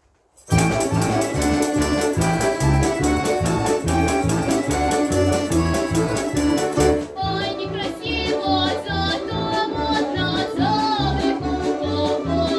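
A Russian folk-instrument orchestra playing, all entering together about half a second in over a steady pulsing bass. Around seven seconds in the sound changes and a wavering melody line stands out above the ensemble.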